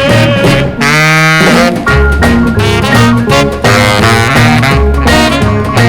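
1950s rhythm and blues record playing an instrumental break with no singing: saxophone and brass lines over bass and drums with a swing beat.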